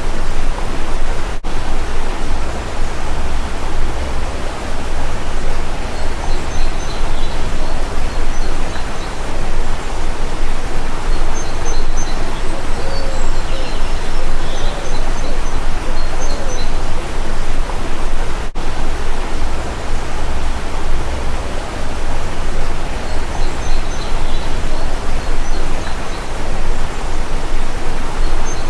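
Loud steady rushing noise, with faint high bird chirps scattered through it and a few short low calls here and there.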